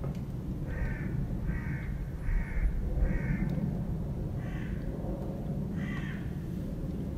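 A bird cawing: six short, harsh calls in the first six seconds, over a steady low rumble.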